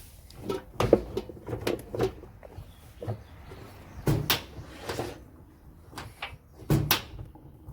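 A string of irregular knocks and clunks, about seven, with the loudest a little under a second in, around four seconds in, and near the end. They sound like hard objects being handled and bumped.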